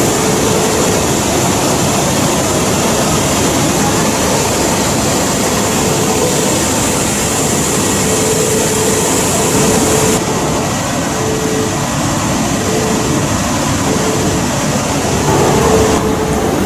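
Shinkansen train running, a steady rumble and hiss with a faint steady hum; the high part of the hiss drops away about ten seconds in.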